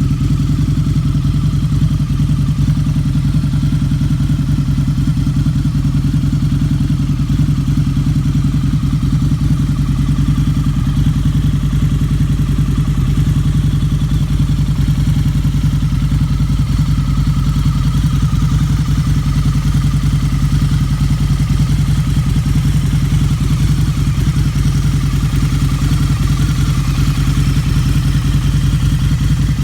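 Harley-Davidson V-Rod's liquid-cooled Revolution V-twin engine running steadily with no revving, its exhaust pulses coming fast and even.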